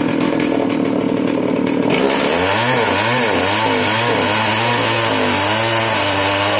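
Sawmill saw running under power. About two seconds in, a loud hissing cut sets in and the machine's pitch wavers, as the blade works through the log.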